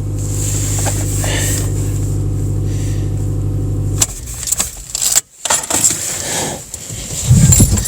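Car engine idling steadily, then switched off abruptly about four seconds in, followed by scattered handling noises and a dull thump near the end.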